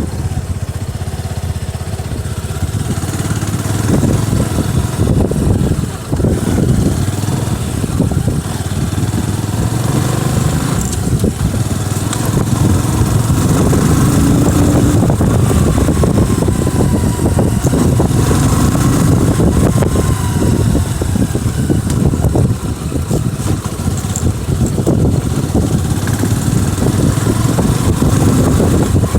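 Motorcycle engine running while riding, its note rising and falling with the throttle.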